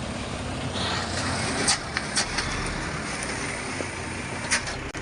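Truck engine running steadily with a low rumble, with a few sharp knocks or rattles about a second and a half in, again just after, and near the end.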